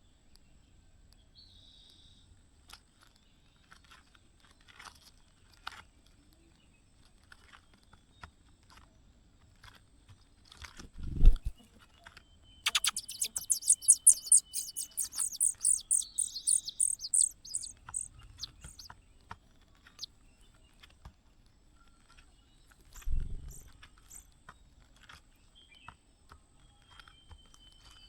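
Nestlings' begging calls: a fast run of high, thin cheeps lasting about five seconds, just after a dull thump. A second thump comes later, with faint clicks and rustles from the nest between.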